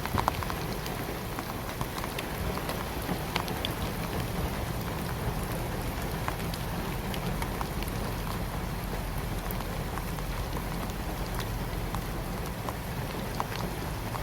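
Rain falling steadily and heavily, a continuous hiss with many separate drops striking a surface as sharp pattering clicks.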